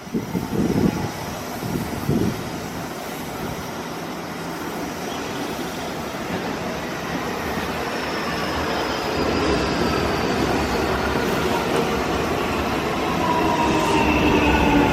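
Nankai electric train coming into the station, running louder as it nears, with its motor whine gliding down in pitch as it brakes from about halfway through.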